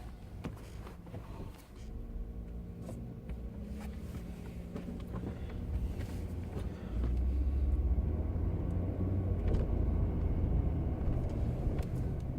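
Engine and road noise of a moving vehicle heard from inside the cabin: a steady low rumble with an engine hum that gets clearly louder about seven seconds in, as the vehicle picks up speed.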